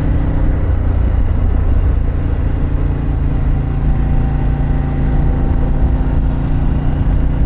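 Harley-Davidson Pan America's 1250 V-twin with a Vance & Hines exhaust running at a steady pace. A dense low rumble lies under the engine note.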